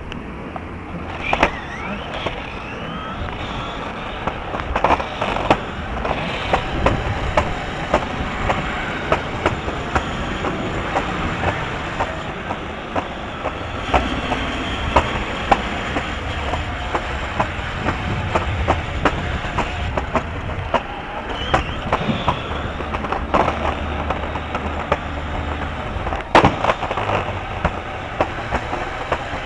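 Steady rumbling noise with frequent sharp clicks and rattles.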